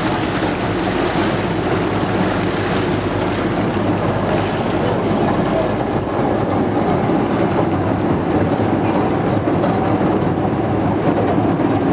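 Boat's engine running steadily, a constant hum under the rush of wind and water.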